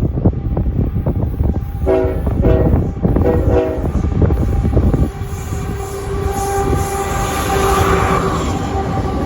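A train passing close by, its wheels rumbling heavily on the rails. The locomotive horn sounds three blasts about two to four seconds in, the last one longer. A steady whining tone then rises over the rumble through the second half.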